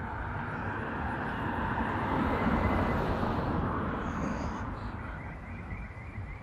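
Aircraft passing overhead: a distant rumble that swells to its loudest about halfway through, then slowly fades.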